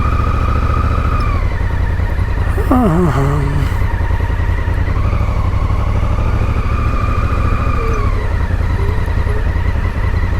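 Honda Africa Twin's parallel-twin engine running at low speed with a steady low drone and a steady higher whine that drops in pitch about a second and a half in and again near the end. A brief voice sounds about three seconds in.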